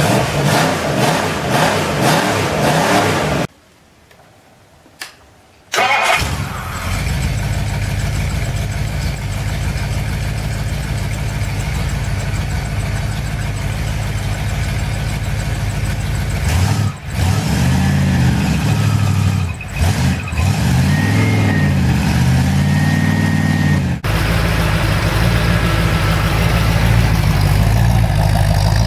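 Rebuilt Ford V8 engines running on an engine test stand, in separate clips. First a 351 Windsor revs; after a short silent gap a 390 FE big block runs and is revved up and down several times. Near the end, after a sudden cut, a 351 Cleveland runs steadily, heard close to its exhaust.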